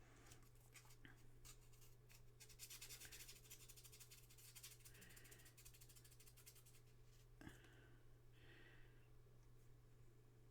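Faint rubbing and scratching of a part of a jeep headlight switch being wiped clean, with a single light knock about three quarters of the way through, over a steady low hum.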